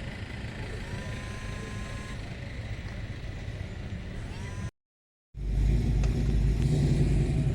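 Car engines running: a steady low rumble that cuts out for about half a second near the middle, then a louder, closer engine idling steadily with a low, even pitch.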